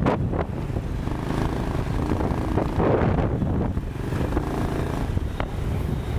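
Motorcycle engine running steadily at speed during a ride, with wind rushing over the microphone.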